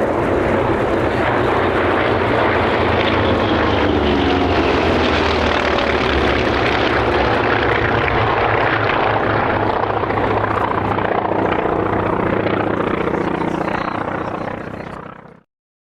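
Corsair warbirds' Pratt & Whitney R-2800 radial engines passing in formation: a loud, steady propeller drone whose pitch slides down as the aircraft go by. It fades near the end, then cuts off abruptly.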